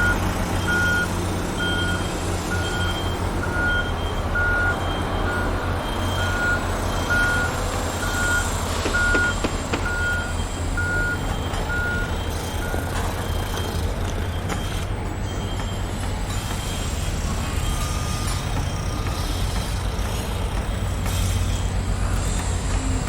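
A truck's reversing alarm beeping at an even rate over the low, steady running of its diesel engine; the beeping stops a little past halfway through while the engine keeps running.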